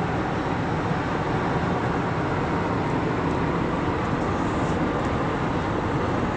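Steady road and engine noise of a car driving on the highway, heard from inside the cabin.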